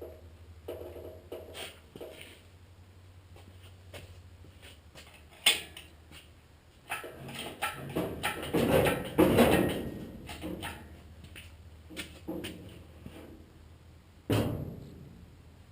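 Scattered knocks and clatter of tools or parts being handled over a low steady hum, with a sharp knock about five seconds in, a longer spell of clatter and rustling a little past the middle, and a loud knock that rings briefly near the end.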